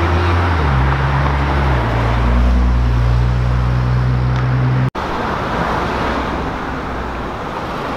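A Nissan GT-R's engine pulling away and accelerating down the street, its low drone changing pitch in steps. It cuts off abruptly about five seconds in, and steady street traffic noise follows.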